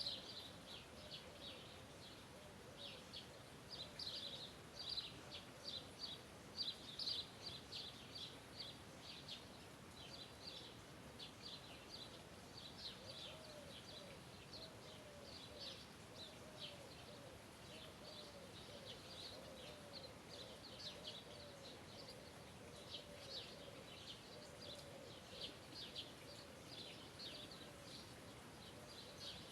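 Songbirds chirping faintly: a steady stream of quick, high chirps. From about halfway a softer, lower call repeats at an even pace beneath them.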